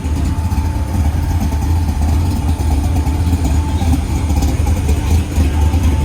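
A car engine idling with a deep, steady low rumble.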